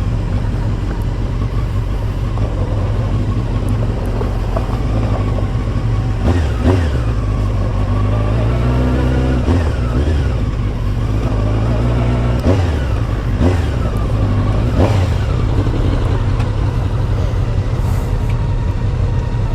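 A 600 cc sports motorcycle's engine under way, revving up and dropping back several times as it pulls through the gears, over steady wind and road noise.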